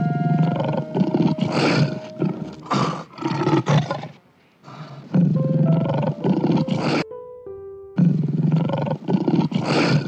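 A tiger roaring and growling in three long rough bouts, broken by two short pauses, about four and seven seconds in. Background music plays beneath.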